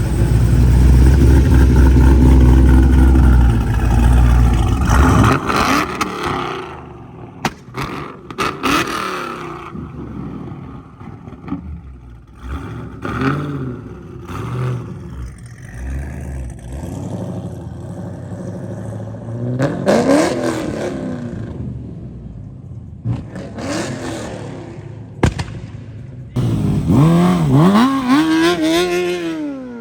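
Car engines: a loud, deep exhaust rumble for the first five seconds or so, then quieter running, with engine revs rising and falling about twenty seconds in and again near the end.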